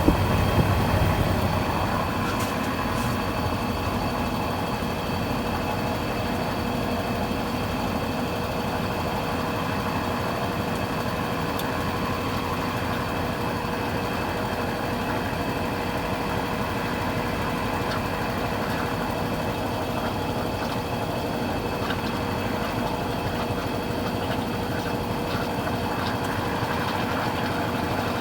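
Consul Cargo 8 kg washing machine running with a steady mechanical hum and a constant tone, a little louder for the first second or two.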